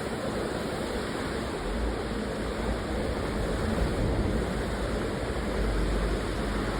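Water rushing steadily over waterfalls and through streams, with a low rumble that swells about two seconds in and again near the end.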